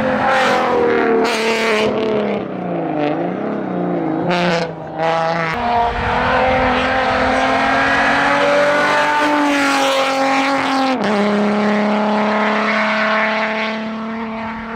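A race car's engine running hard up a hill-climb course. Its pitch shifts at gear changes, dropping sharply about eleven seconds in. A few short sharp cracks come in the first five seconds, and the engine fades away near the end.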